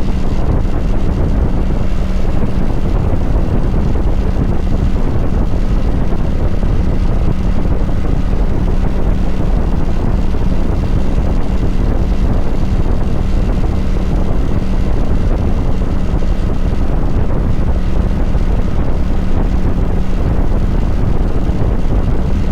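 Kawasaki Vulcan 900 Classic LT's V-twin engine running steadily at an even speed, with heavy wind rumble on the microphone from riding.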